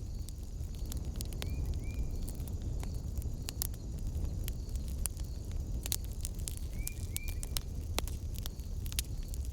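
Wood fire burning with a low steady rumble and frequent sharp crackles and pops. Twice, about a second and a half in and again near seven seconds, a pair of short high chirps sounds in the background over a faint regular high ticking.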